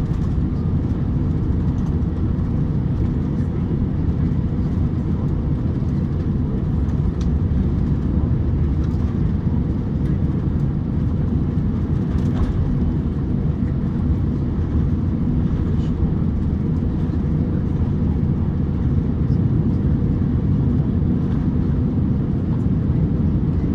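Steady low rumble in the passenger cabin of an Airbus A350-900 taxiing on its two Rolls-Royce Trent XWB engines.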